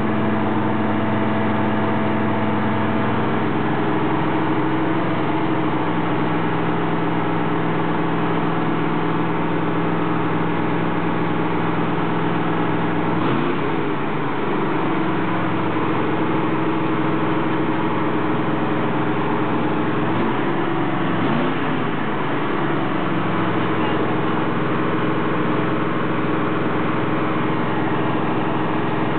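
Pontiac GTO's V8 running through a new Pypes Street-Pro exhaust, idling steadily with two brief wavers in engine speed, about halfway through and again about two-thirds of the way through. The idle still needs adjusting.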